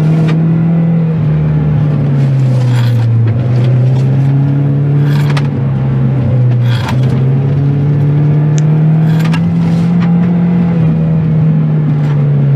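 Saab car's engine heard from inside the cabin while being driven, its note dropping, then rising slowly and falling again as the throttle and revs change. A few sharp clicks sound over it.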